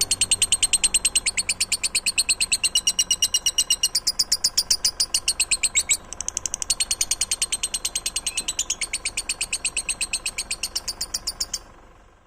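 A caged songbird singing one long, rapid trill of high notes repeated about seven times a second, changing its phrase twice before it cuts off abruptly near the end.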